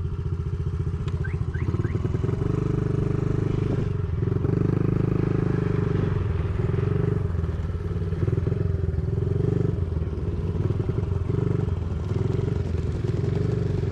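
Dirt bike engine running steadily close by at low revs, with a fast even beat; the revs rise a little a few seconds in, then settle again.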